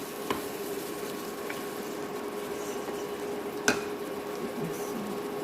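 Chicken curry sizzling in a cooking pot over a steady hum, with two sharp knocks of a utensil against the pot, one just after the start and one near four seconds in.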